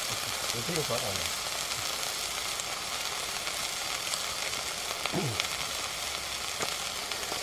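Moths and moth pupae frying in oil in a metal pan: a steady sizzle with a few sharp pops.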